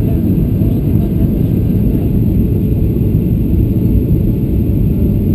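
Steady low rumble inside the cabin of a Boeing 737-700 on its landing approach: the CFM56-7B engines and the airflow past the fuselage, heard as an even noise without any bumps or touchdown.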